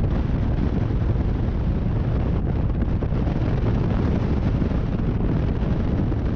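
Race car's engine running at speed under heavy wind buffeting of the microphone: a steady, loud low rumble with no clear pitch changes.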